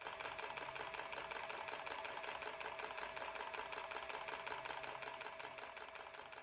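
A machine running with a fast, even clatter of about ten beats a second over a steady hum, fading out near the end.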